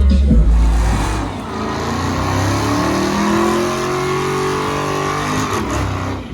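A car engine accelerating, its pitch climbing steadily for about four seconds. This follows a heavy deep rumble in the first second, and the sound cuts off abruptly near the end.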